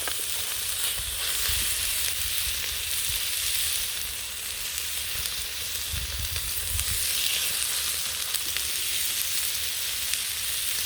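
Marinated pork chops sizzling steadily in a hot pan over campfire embers, cooked without oil.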